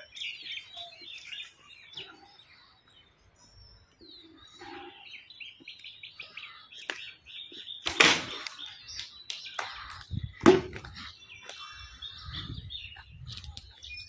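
Small birds chirping and twittering repeatedly, with two loud sharp sounds about eight and ten and a half seconds in.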